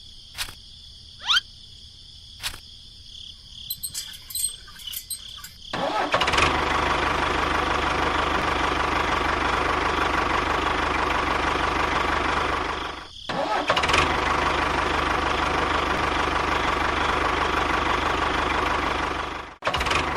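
An engine starts running about six seconds in and keeps going at a steady level. It cuts out briefly near the middle and again just before the end; before it starts there are only scattered faint clicks.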